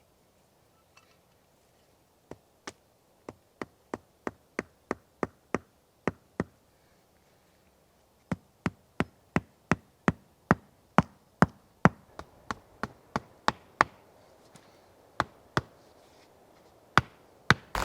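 Repeated sharp blows of a hand tool being struck, about three a second, in two long runs with a pause between, then a few scattered strikes.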